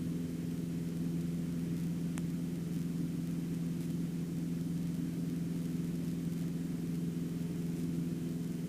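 Cessna 150's Continental O-200 four-cylinder piston engine running steadily at takeoff power, a constant low drone with a few steady tones.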